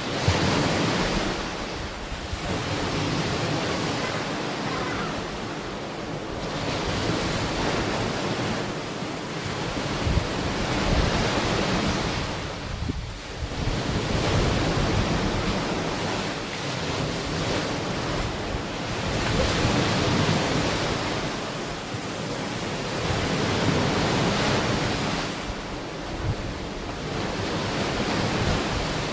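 Ocean waves breaking and washing onto a beach, a steady surf noise that swells and eases every few seconds, with some wind on the microphone.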